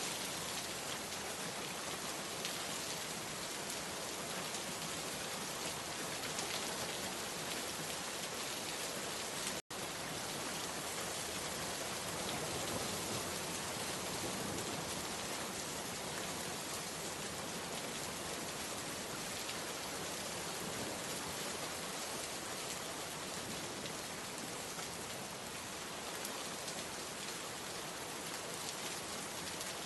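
Steady, even rainfall pattering on surfaces, with a split-second dropout to silence about ten seconds in.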